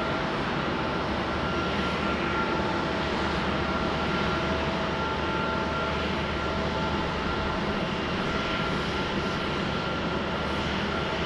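Jet airliner engines running: a steady broad rush with a few high steady tones over it, holding at an even level.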